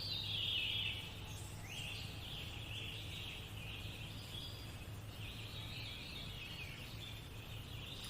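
Birds chirping and trilling continuously in the background, with a low steady hum underneath.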